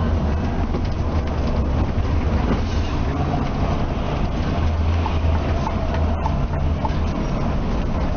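Steady low drone of a moving Scania K360ib coach heard from inside the cabin: engine and road rumble with no distinct events.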